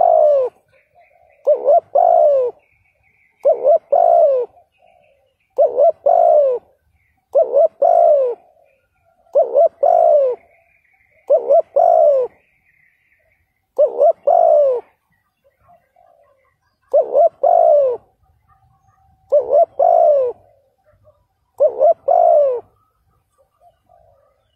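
Spotted dove cooing: a short phrase of a few low coo notes, repeated about every two seconds.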